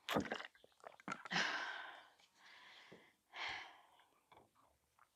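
A woman breathing heavily after exercise, with several audible breaths; the longest is a drawn-out exhale about a second and a half in.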